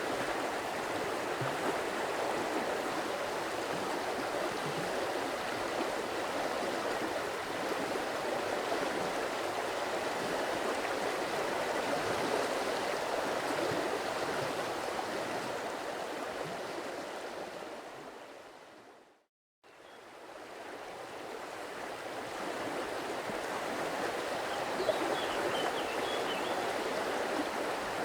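Stream water flowing steadily, an even rush; it fades out to silence about two-thirds of the way through and fades back in. A few faint bird chirps come near the end.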